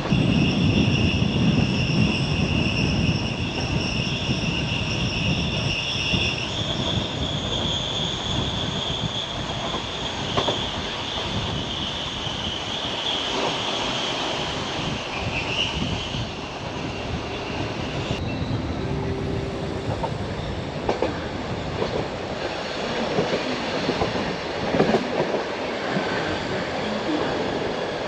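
Bernese Oberland Railway narrow-gauge train running, with a high-pitched squeal from its wheels on the rails that lasts about the first half and ends with a short dip in pitch. After that the rumble of the running gear carries on, with scattered clicks of the wheels over the rail joints.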